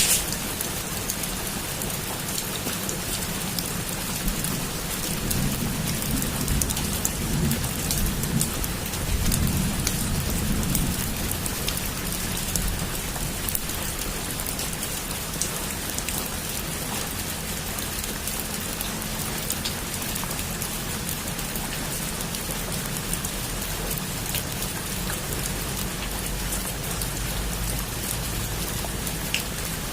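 Heavy rain falling steadily, with a low rumble of thunder swelling and fading from about five to eleven seconds in.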